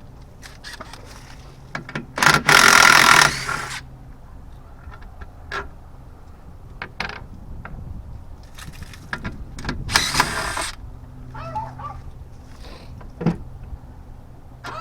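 Clinks and knocks of hand tools working on a boat's stern drive, with two longer, loud noisy scrapes, one about two seconds in and one about ten seconds in.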